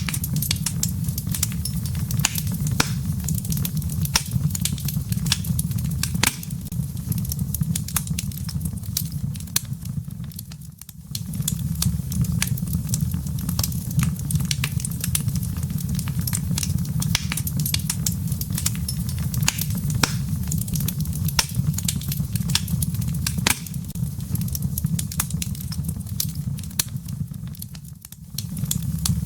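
Wood fire burning in a fireplace: a steady low rumble of flames under frequent sharp crackles and pops from the embers. The sound dips briefly twice.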